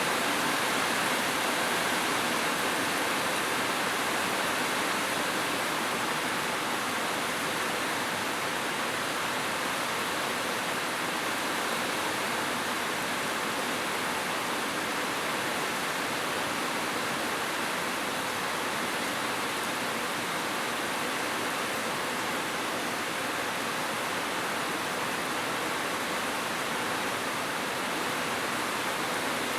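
Heavy rain falling on a roof, a steady, even hiss.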